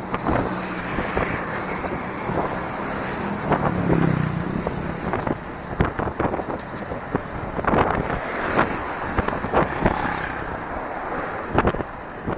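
Bicycle riding over a rough dirt trail: a steady rolling noise with many irregular knocks and rattles as the bike goes over bumps.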